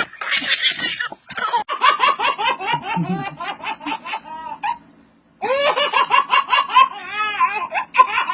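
Young child laughing hard in rapid, high-pitched bursts, breaking off briefly about five seconds in and then starting again.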